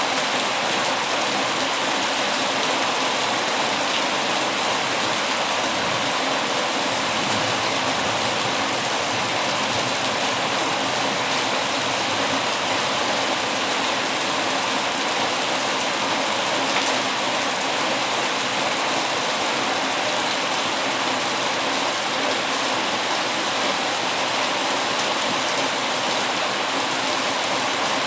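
Heavy rain hitting windows, a steady, even hiss that does not change.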